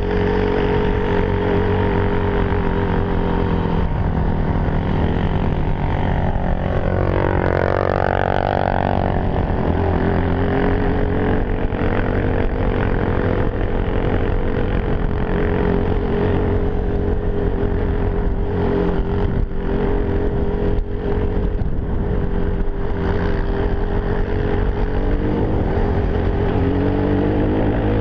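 Enduro motorcycle engine running steadily while riding. The revs drop about four seconds in, climb back up a few seconds later, and rise again near the end.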